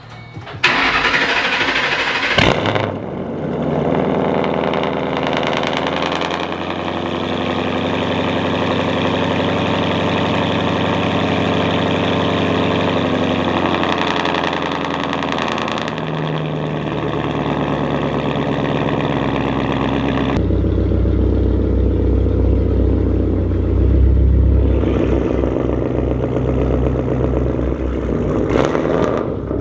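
2007 Ford Mustang GT's 4.6-litre V8 through a cat-less H-pipe straight exhaust with no mufflers: it starts near the beginning, then runs at a steady, loud idle. About two-thirds of the way in, the sound turns into a heavy, pulsing low rumble.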